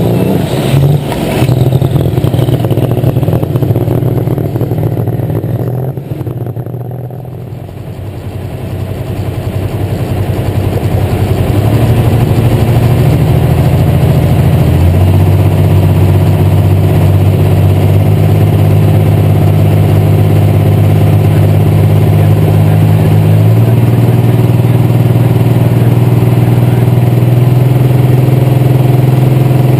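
Light Super Stock pulling tractor's engine heard from on board, running loud and steady. It eases off about six seconds in, builds back up over the next few seconds, and shifts pitch a couple of times later on.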